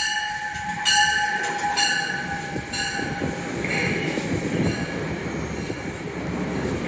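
Metro-North commuter train pulling into the station: a steady rumble of wheels on rail with short, high-pitched wheel squeals repeating in the first three seconds.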